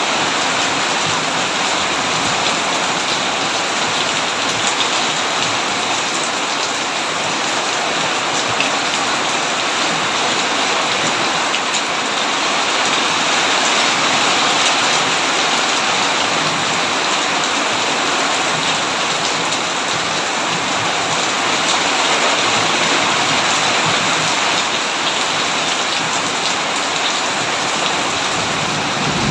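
Heavy rain falling steadily, an even wash of countless drops striking a surface.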